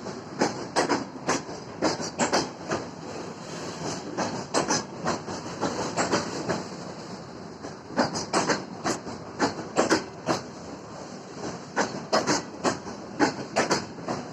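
Freight wagon wheels clacking over rail joints and points during shunting: a rapid, irregular series of sharp clicks in clusters over a steady hiss.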